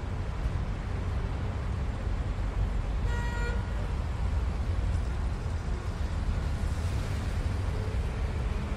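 Steady low rumble of wind and riding noise on a moving bicycle. About three seconds in comes one short horn toot, lasting about half a second.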